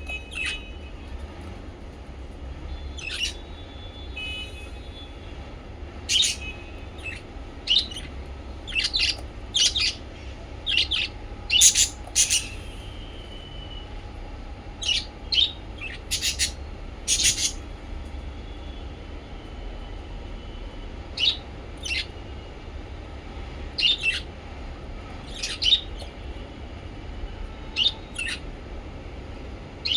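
Small pet parrots, lovebirds and budgies, chirping with short, sharp calls at an irregular pace, often one or two a second, over a steady low hum.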